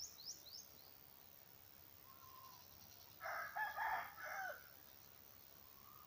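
A rooster crows once, a call of about a second and a half in several parts, starting about three seconds in. Just before it, a small bird's quick run of high chirps ends.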